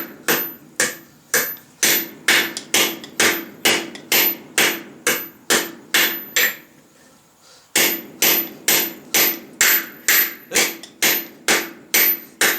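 Hand hammer striking steel on a small stake anvil made from a truck axle, forging a piece of square bar stock, in a steady run of ringing blows about two and a half a second. The blows stop for about a second just past the middle, then carry on at the same pace.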